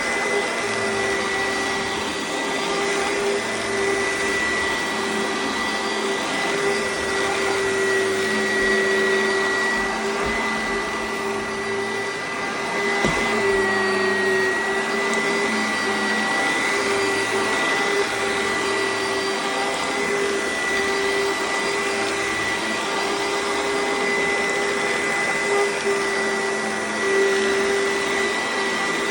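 Oreck XL upright vacuum cleaner running steadily with a constant high whine. Its pitch dips briefly about halfway through.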